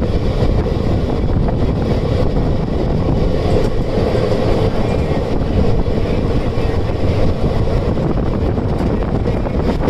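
Indian Railways passenger train running at speed, heard on board: a steady rumble of wheels on the rails with a constant mid-pitched hum.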